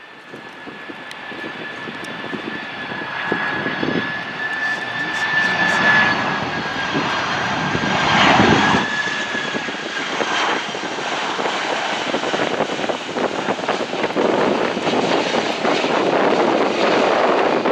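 Jet airliner on landing approach passing close overhead: a high steady engine whine over a rushing noise that grows louder, loudest about eight seconds in, then a broad roar as it goes by.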